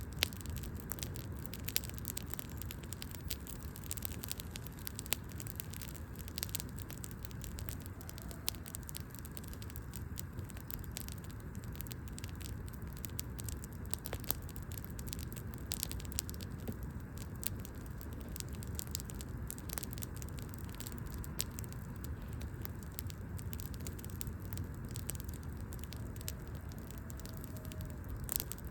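Wood fire crackling, with irregular sharp pops and snaps over a steady low rumble of the burning, and one louder pop near the end.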